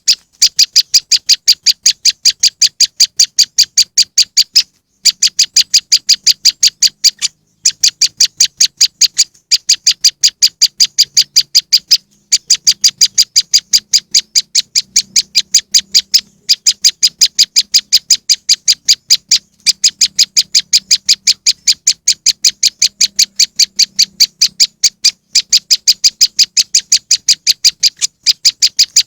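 Prenjak lumut bird-lure call: a fast, even series of sharp, high chip notes, about four a second, broken by brief pauses every few seconds.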